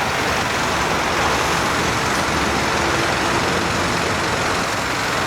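Steady city road-traffic noise, a continuous wash of engine and tyre sound with no single vehicle standing out.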